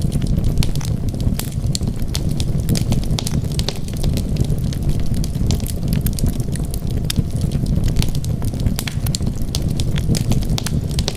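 Wood fire burning, with frequent irregular sharp crackles and pops over a steady low rumble of flames.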